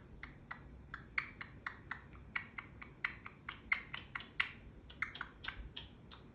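Pet parrot making a rapid series of sharp clicks, about five a second, a mimicked clicking call that her owner taught her and that local geckos also make.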